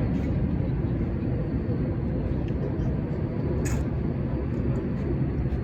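Steady low rumble of a distant jet airliner's engines at the airport, with one sharp click a little past halfway.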